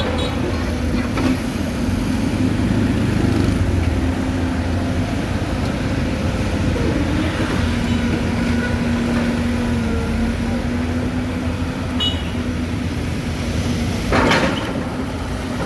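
Excavator diesel engine running steadily under working load, its pitch shifting slightly partway through, with a brief loud clatter about 14 seconds in.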